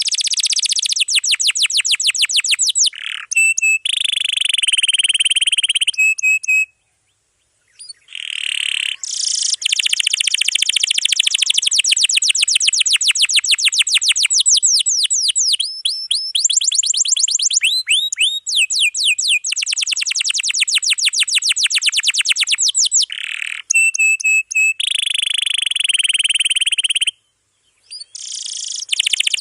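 Domestic canary singing a long, dense song of rapid trills and repeated rolling note series, high-pitched and loud, broken by two short pauses, one about seven seconds in and one near the end.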